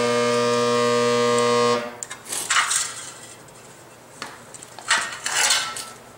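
Resistance spot welder buzzing loudly and steadily for about two seconds as it welds a small piece of sheet metal, then cutting off. Two short metallic clatters follow, about a second apart and again near the end.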